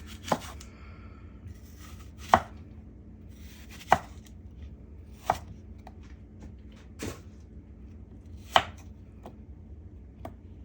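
Kitchen knife chopping on a cutting board: six or so sharp single chops spaced about a second and a half apart, with a couple of lighter taps near the end.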